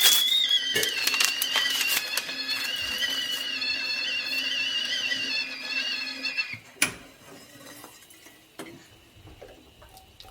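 Kettle whistling at the boil, a high wavering whistle that stops about six and a half seconds in as the tea water is done. A sharp click follows, then light kitchen clicks.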